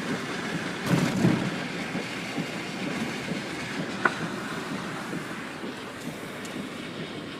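Road and wind noise inside a moving car: a steady rumbling rush, with a couple of louder bumps about a second in and a sharp click about four seconds in.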